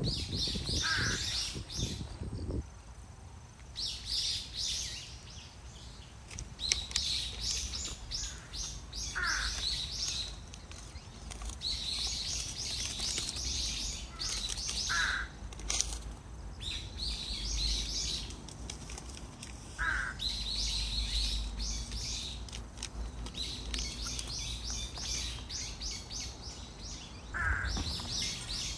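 Small birds chirping in quick high-pitched bursts, repeated every second or two. A lower, falling call comes about five times, over a faint low rumble.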